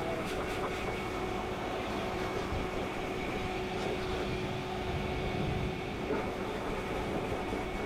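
Pet grooming blow dryer running steadily: a constant rush of air with a steady motor whine.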